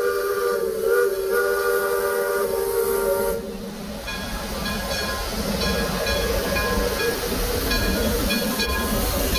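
Steam locomotive whistle blowing a steady multi-note chord with steam hiss, cutting off about three and a half seconds in. Then the train runs on with a steady low rumble and short, repeated metallic tones.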